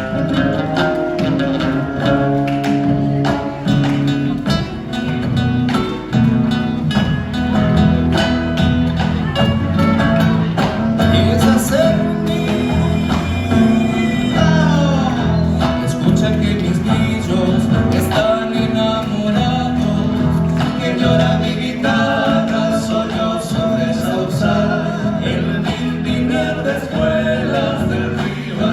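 Argentine folk samba played live, with acoustic guitar accompaniment and singing.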